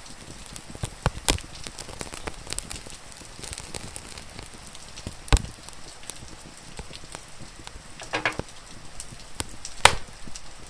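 Wood fire crackling, with scattered sharp pops, two loud ones about five and ten seconds in, over a steady hiss of rain.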